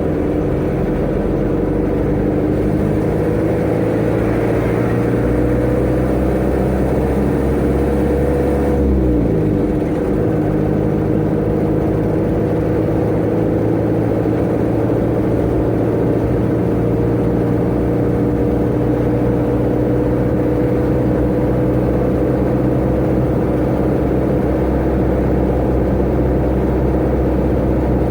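Tata Ace mini truck's engine running under load as it gathers speed, its note and a steady whine slowly rising in pitch. About nine seconds in the note drops at a gear change, then climbs slowly again.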